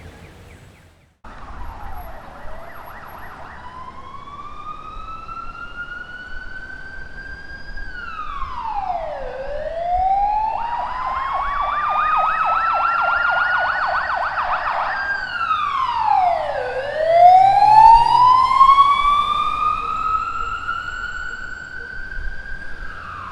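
Ambulance siren sounding a slow wail that rises over several seconds and drops back, with a rapid yelp laid over it twice. It begins about a second in and grows louder to a peak about two-thirds of the way through, then fades as the vehicle passes.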